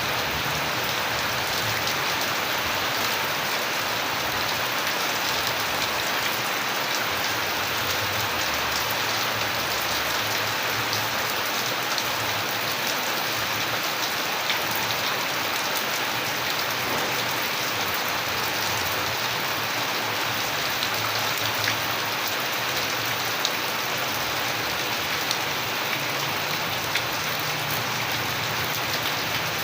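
Steady rain falling and pattering on surfaces, with a dense hiss and scattered individual drop hits.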